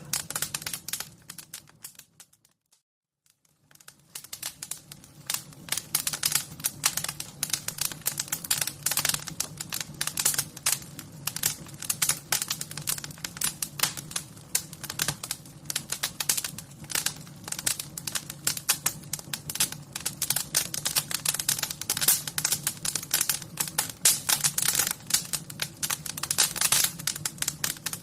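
Wood fire crackling: dense, irregular pops and snaps over a faint low rumble. It drops out for a couple of seconds about two seconds in, then resumes.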